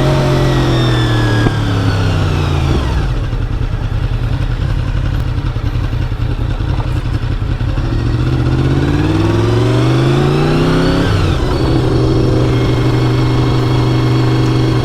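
Honda VFR 750 V4 motorcycle engine heard while riding: the engine note drops and fades about two to three seconds in, then rises as the bike accelerates from about eight seconds in and settles into a steady cruising note near the end.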